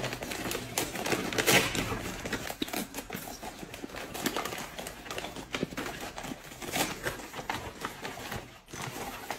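Rustling and crinkling of layered gift wrapping being pulled off a box by hand, a run of irregular clicks and crackles. Eating sounds, chopsticks on a bowl and chewing, are mixed in.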